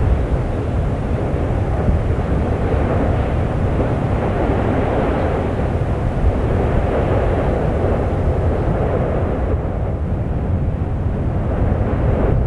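Erupting volcano's steady, low rumbling roar, a continuous noise with no distinct pitch, growing a little louder near the end.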